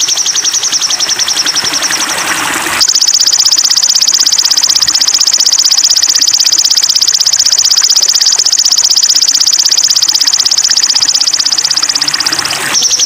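High-pitched, very rapid trill held steady for about ten seconds, starting about three seconds in after a noisier, less even stretch, from a bird-song 'masteran' training recording for a sogon.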